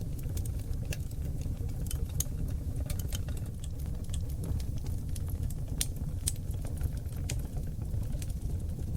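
Wood fire burning in a fireplace on seasoned oak logs: a steady low rumble of the flames with frequent irregular crackles and sharp pops, several a second.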